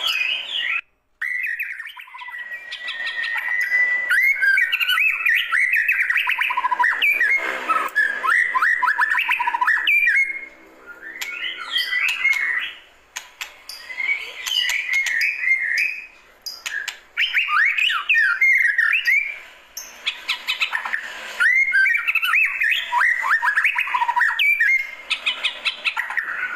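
White-rumped shama singing: a long, varied run of loud whistled phrases, sliding notes and rapid trills, broken by short pauses. The sound cuts out completely for a moment about a second in.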